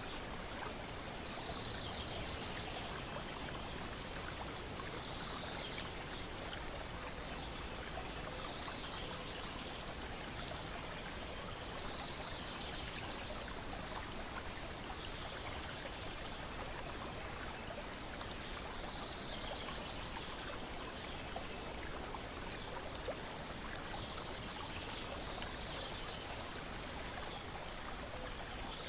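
Lake water lapping and splashing in a steady wash, with a bird singing short trilled phrases every few seconds.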